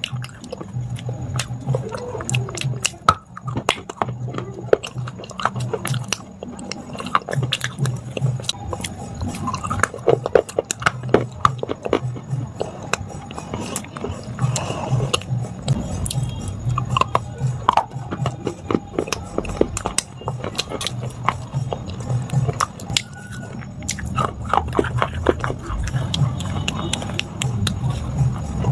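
Close-miked biting and chewing of hard, brittle baked clay, with many sharp, irregular crunches and cracks.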